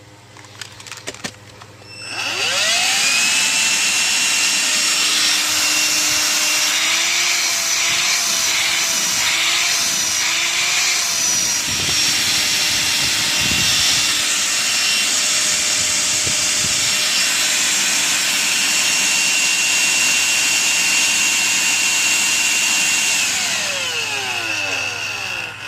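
Electrolux ZB3113 18V cordless stick vacuum running on its refilled lithium battery pack. After a few clicks it is switched on and its motor whines up to speed. It runs steadily for about twenty seconds, then winds down with a falling whine near the end.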